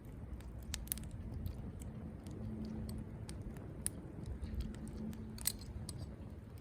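Campfire crackling, with irregular sharp pops and snaps over a low rumble.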